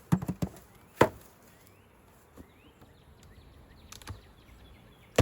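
Sharp wooden knocks and clacks as a beehive's wooden parts are handled and pried: a quick cluster at the start, one loud knock about a second in, a few faint clicks later and another knock at the end.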